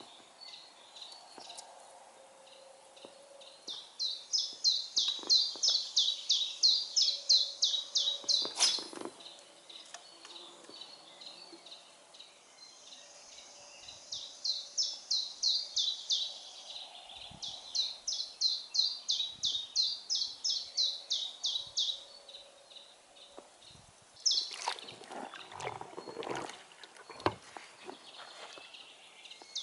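A songbird singing long runs of quick, high, repeated notes, about five a second, three phrases in all. Near the end come a few short knocks and rustles.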